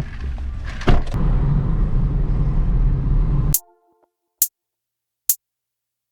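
Road noise of a moving car, heard from inside, a steady low rumble with a knock about a second in; it cuts off abruptly a little past halfway, leaving silence broken by three short sharp clicks.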